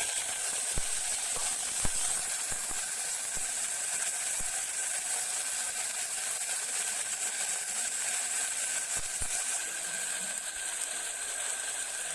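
Lotus root pieces with green chili and green garlic sizzling in hot oil in an aluminium pressure cooker base: a steady, high hiss with a few small knocks and pops.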